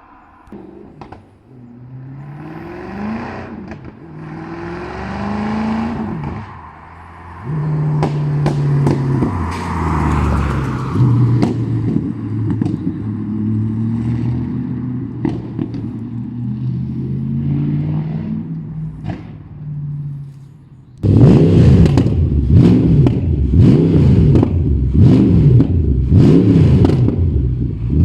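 Mercedes-AMG M156 naturally aspirated V8 in a C63 AMG being driven, its note rising in pitch and dropping back several times as it pulls through the gears. About 21 seconds in it suddenly becomes much louder.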